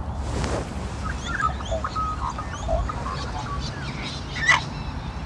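Wild birds calling: a run of short, quick whistled chirps, then one loud sharp call about four and a half seconds in.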